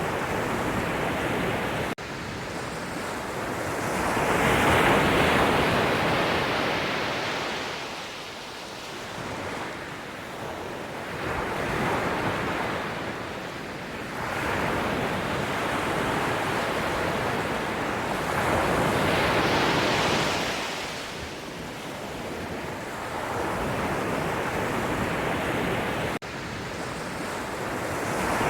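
Ocean surf: waves breaking and washing in, each surge swelling and fading about every seven to eight seconds.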